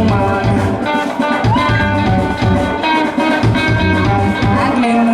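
Live rock band playing: guitars with sustained notes over a steady drum-kit beat.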